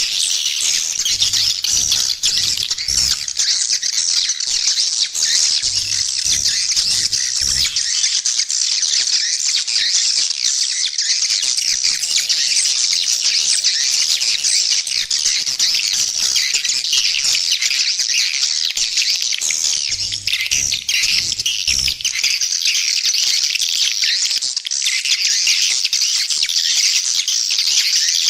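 Swiftlet call recording used as a lure for swiftlet nest houses: a dense, continuous chorus of high twittering and chirping from many swiftlets. Faint low pulses run underneath three times.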